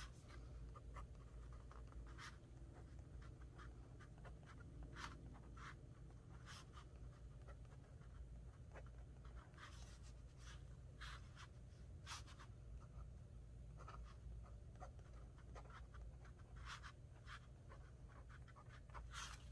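Faint scratching of a pen writing and drawing on a paper journal page, in short irregular strokes.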